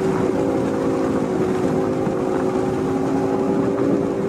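Chevrolet Camaro convertible's 2.0-litre turbocharged four-cylinder engine running at a fairly steady pitch while driving, with wind and road noise coming in through the open top.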